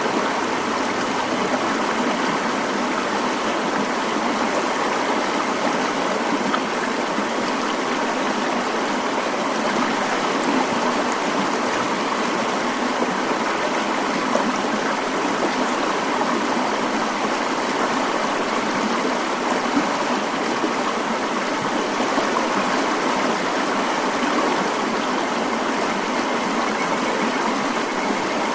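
Mountain stream flowing over rocks: a steady, unbroken rush of water with no change in level.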